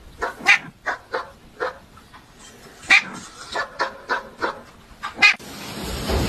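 A cat giving a series of short, clipped calls, a few a second, in two runs with a pause between. Near the end a rising rush of noise begins.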